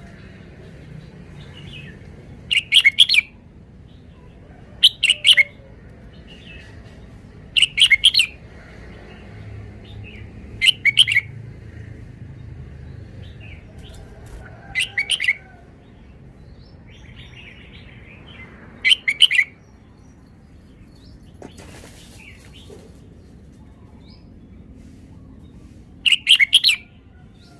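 Red-whiskered bulbul singing: short, loud, bubbly song phrases, about half a second each, repeated every few seconds, seven in all, with a longer pause before the last.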